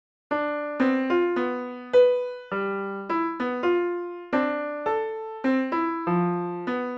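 A piano-toned keyboard playing a simple melody one note at a time, about fifteen notes at an uneven pace, each struck and left to fade. It starts abruptly from silence about a third of a second in.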